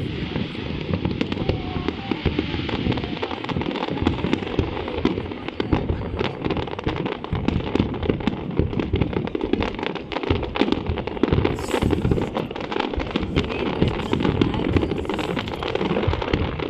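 Fireworks display going off in a dense, continuous barrage of bangs and crackles, one report hard on the next with no break.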